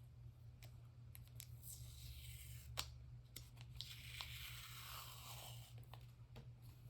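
Washi tape being pulled off its roll and torn: a faint tearing rasp lasting a few seconds from about two seconds in, among light clicks and taps of handling.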